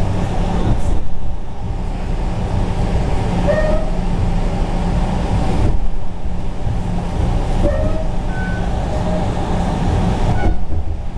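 Train running on the rails, a steady loud rumble with a few brief squeals.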